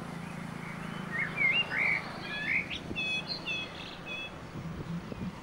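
Small birds singing: a run of quick whistled, swooping notes, then a few repeated clear notes, over a low steady hum.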